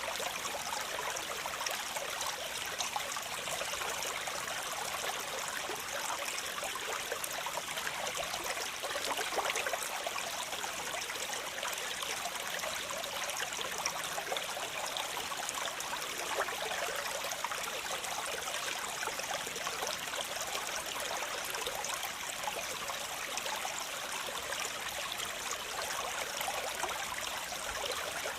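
Waterfall: water pouring and splashing steadily, an even hiss that sits high with little low rumble and is dotted with small splashes.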